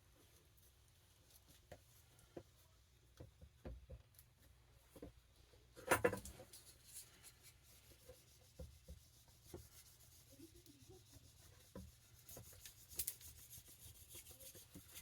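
Faint hand-handling noises on paper: light rubbing and scattered small taps and clicks, with a louder brief crackle about six seconds in and another around thirteen seconds.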